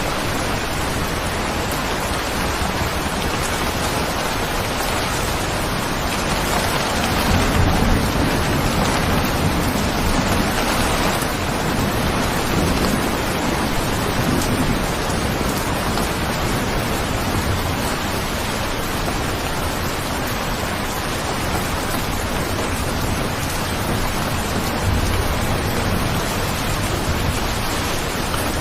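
Steady heavy rain, with low rolls of thunder swelling up a few times.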